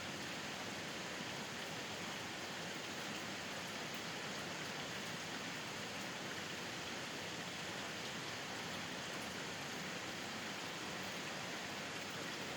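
Steady rainfall, an even hiss of rain falling and pattering on surfaces.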